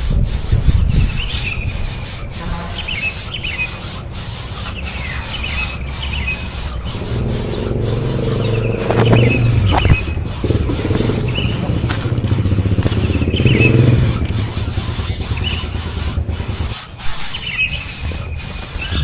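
Baby birds in the nest calling in short, high, squealing chirps, one every second or two. A low engine rumble swells in the middle.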